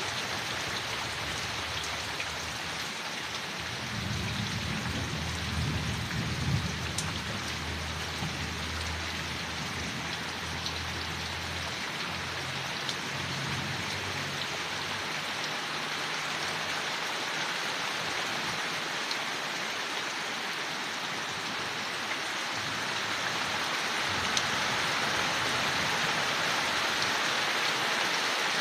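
Steady rain falling on leaves, an even hiss throughout that grows louder near the end. From about four seconds in, a low rumble of distant thunder rolls under it for several seconds and fades.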